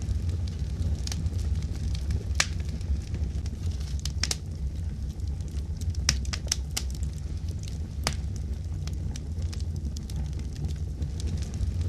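Wood fire crackling, with scattered sharp pops over a steady low rumble, several pops coming close together about six seconds in.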